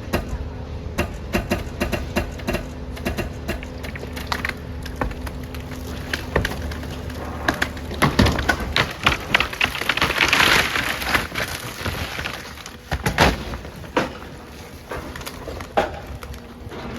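Building demolition: repeated knocks and cracks of breaking concrete and masonry over a steady low machine hum. About eight seconds in, a few seconds of crashing rubble falling, then a few more heavy knocks.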